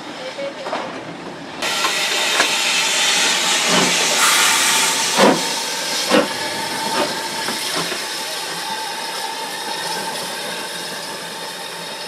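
A train, with a loud hiss that starts suddenly about a second and a half in and runs on steadily, and a few short knocks over it.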